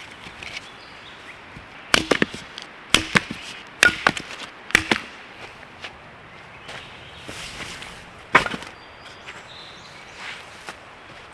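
Firewood being split by hand: a series of sharp chopping blows into wood, mostly in quick pairs over a few seconds, then a single heavier blow later.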